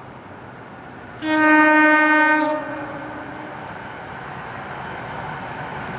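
A train's air horn gives one blast, a chord of several tones lasting just over a second, starting about a second in, over the steady rumble of the approaching train: part of the horn sequence sounded for a grade crossing.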